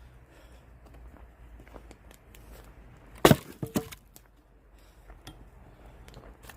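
An axe strikes a log once, about three seconds in, splitting firewood, followed by a couple of lighter knocks.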